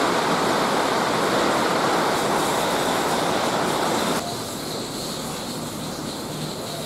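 Heavy rain pouring down onto wet concrete and puddles, a steady loud hiss that drops to a lower level about four seconds in.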